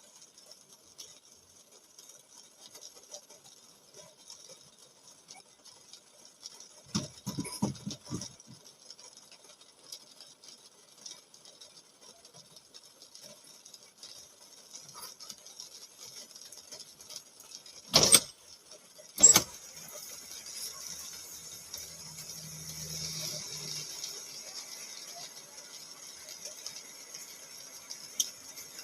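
Rain on a car, heard from inside the cabin as a steady hiss. A brief rattle comes about seven seconds in, then two sharp knocks a second apart, after which the hiss grows fuller and a little louder.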